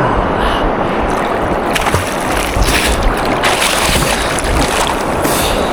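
River water sloshing and rushing close to the microphone: a loud, steady noise with a deep rumble and a few faint knocks.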